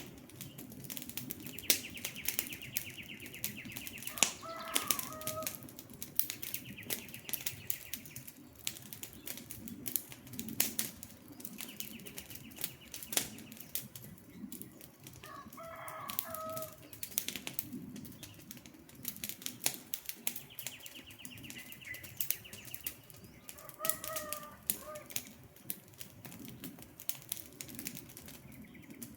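Campfire crackling with a steady run of sharp pops and snaps. A bird calls three times, about ten seconds apart, and a high trill comes and goes four times.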